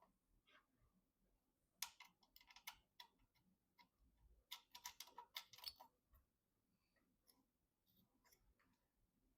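Faint light clicks and taps in two short clusters, a couple of seconds apart, with a few scattered ticks afterwards, over near silence.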